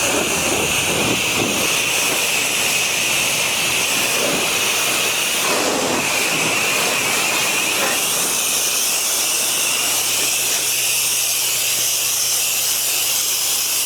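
Pressure washer spraying, a steady loud hiss of high-pressure water striking a hard surface. A faint low hum comes in about ten seconds in.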